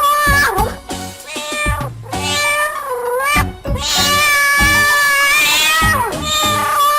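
Domestic cat meowing several times, with one long drawn-out meow in the second half, over background music with a steady beat.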